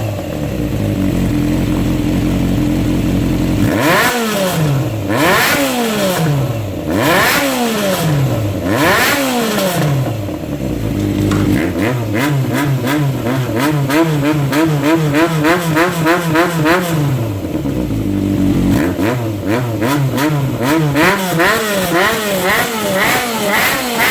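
Honda CBX400F's air-cooled inline-four, breathing through a DEEPFIELD Brass Magic steel aftermarket exhaust, idling and then blipped up several times in quick throttle stabs, each falling back. It holds a higher speed for a few seconds, drops back down, and near the end is revved in quick rapid bursts.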